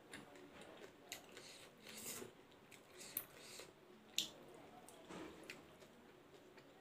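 Faint close-up eating sounds: soft wet chewing of rice eaten by hand, with short sharp mouth clicks about once a second.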